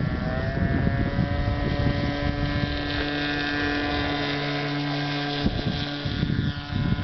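Motor of an RC model F-22 jet spinning up for takeoff, a whine that rises in pitch during the first second and then holds steady at full power. Wind buffets the microphone.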